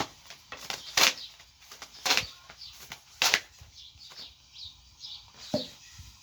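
Small birds chirping repeatedly, with four sharp knocks or slaps about a second apart in the first half, the loudest sounds, and a short falling call near the end.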